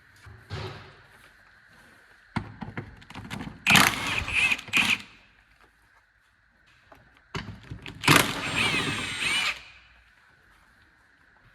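A handheld power tool running in two bursts of about a second and a half each, its motor whine wavering, with short knocks and clatter between and around them.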